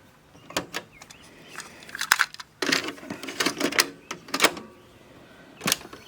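Clicks and clunks from the cassette deck of a Samsung PCD-720 boombox as its door and transport keys are worked: a run of separate sharp mechanical clacks, with a small cluster a little before the middle.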